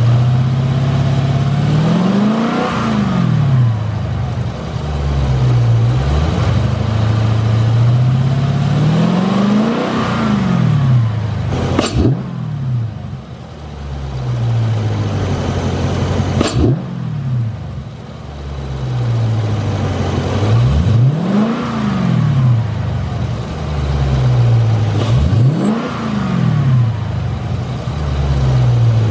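Dodge 392 Hemi V8 engine fitted with an aFe throttle body spacer, revved up and let fall back to idle several times. Two sharp, short sounds come about midway.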